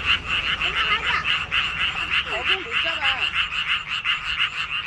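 Chorus of many frogs calling at once: a dense, unbroken run of rapid pulsed croaks, about six a second.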